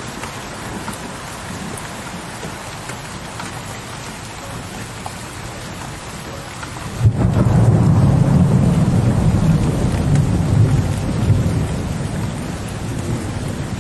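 Steady rain falling, then about halfway through a sudden clap of thunder that turns into a long, deep rumble rolling on under the rain, easing slightly near the end.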